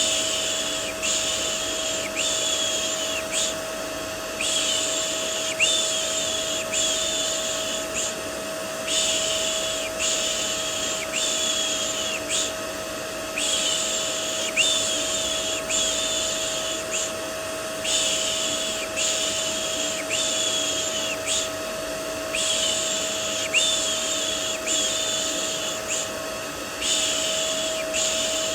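Vacuum cleaner running steadily with a constant whine, under a looped soothing 'shh shh' sound for babies: hissy shushes about one a second, in runs of four or five with a short pause between runs.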